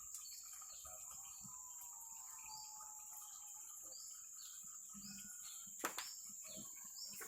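Faint outdoor ambience: a steady high-pitched insect drone, with short bird chirps every second or so and a faint knock near the end.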